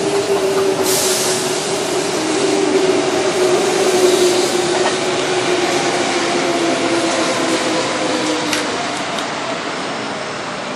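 Electric commuter train running past close by, with a steady motor whine that slowly falls in pitch over rail and wheel noise. A brief hiss comes about a second in, and the sound fades toward the end.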